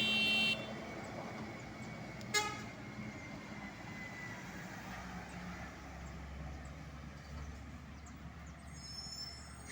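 Vehicle horn: a loud blast that ends about half a second in, then a short sharp toot about two seconds in, over steady road traffic. A low engine rumble grows about five seconds in.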